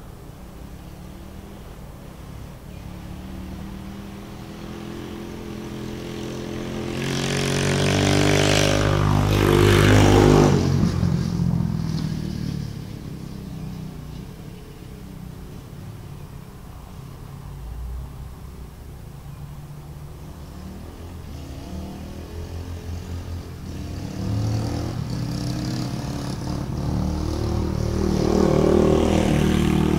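Dirt bike engine running and revving as the bike passes by: it grows louder to a peak about ten seconds in, drops in pitch as it goes past and fades, then comes back loud near the end.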